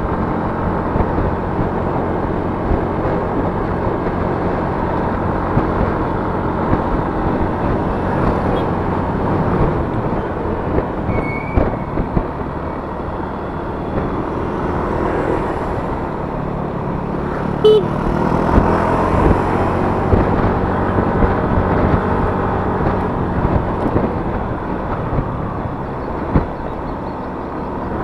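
Yamaha Mio S 125 scooter's single-cylinder engine running steadily while riding, with wind and road noise. A brief sharp click a little past halfway.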